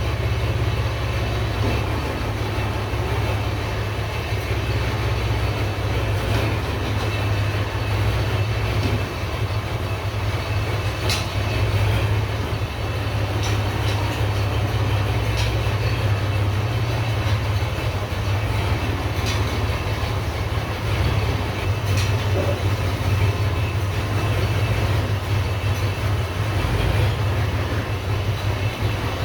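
Large farm tractor's engine running steadily with a low rumble, with a few light clanks over it.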